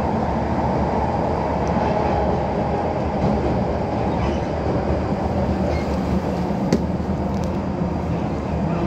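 Steady running noise of an electric passenger train heard from inside the carriage as it travels through a tunnel, with one sharp click nearly seven seconds in.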